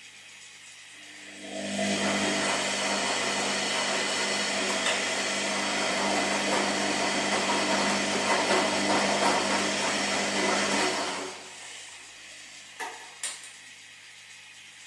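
Washing machine running: a loud, steady motor-and-drum noise starts about a second and a half in and runs for about nine seconds before stopping, leaving a low hum, then two short clicks near the end.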